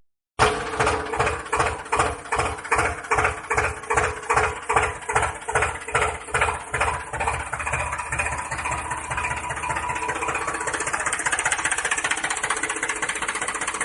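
An engine starting up with slow, even chugs, about two and a half a second, that speed up and blend into a steady fast idle after about eight seconds.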